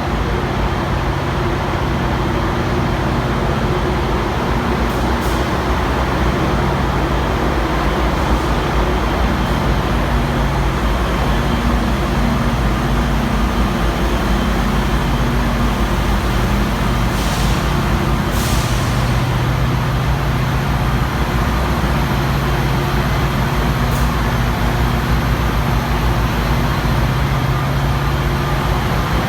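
Steady noise of a train running, with a low engine hum throughout and two brief hisses a little past the middle.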